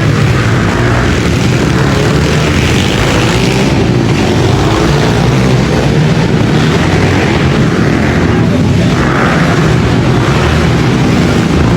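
Pit bike engines racing on an arenacross track: a loud, continuous engine drone whose pitch keeps rising and falling as the riders throttle on and off.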